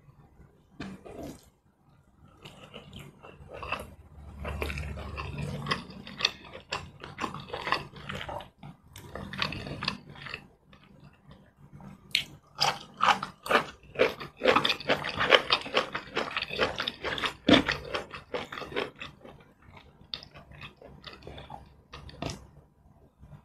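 Close-miked eating sounds: irregular wet chewing, smacking and biting as mouthfuls of rice, curried cassava leaves and long bean are eaten by hand, loudest about halfway through.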